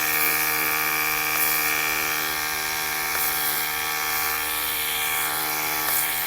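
Simoniz cordless foam cannon's electric compressor running with a steady whine while snow foam sprays from the nozzle with a hiss. The compressor is cycling on to keep the spraying pressure up.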